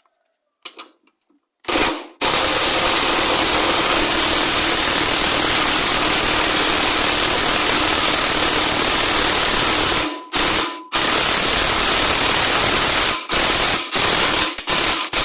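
A compressed-air tool running with a loud, steady hiss for about eight seconds. It pauses briefly, runs again, then gives several short bursts near the end.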